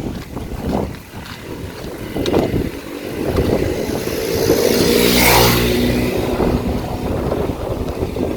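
A motor vehicle drives past, its engine note and rushing noise swelling to loudest about five seconds in and then fading away.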